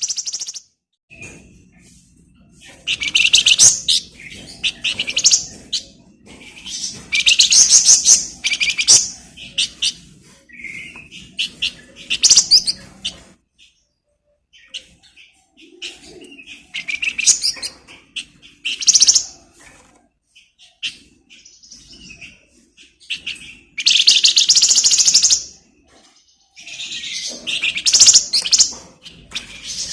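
A flamboyan songbird singing vigorously in repeated bursts of rapid, dense high chattering trills, broken by short pauses.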